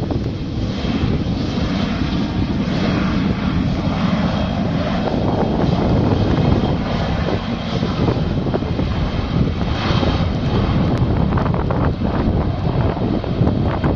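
Airliner engines at takeoff power: a loud, steady rushing noise.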